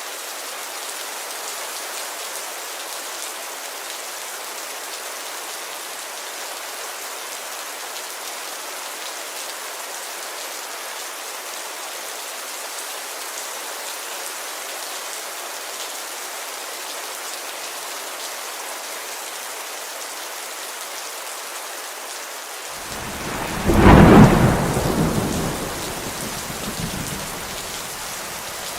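Steady rain falling on a window, with a sudden loud clap of thunder near the end that rumbles away over a few seconds.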